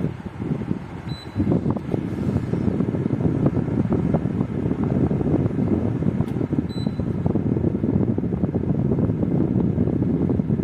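Pro Breeze 20 L compressor dehumidifier running with its fan blowing steadily. Two short electronic beeps from its control panel, about a second in and again about seven seconds in.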